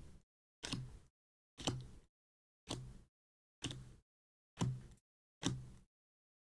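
Trading cards being flipped one at a time through an opened booster pack, a short sharp card sound about once a second, seven in a row.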